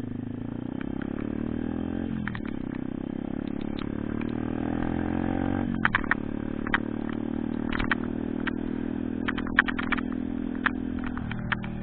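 Pitbike engine accelerating through the gears: its pitch rises, drops sharply at a shift about two seconds in, rises again and drops at a second shift about six seconds in, then holds a steady cruise before easing off near the end. Scattered sharp clicks sound over the second half.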